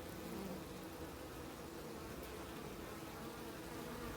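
Honey bees buzzing steadily at a busy hive entrance, many workers flying in and out, a continuous hum with passing tones.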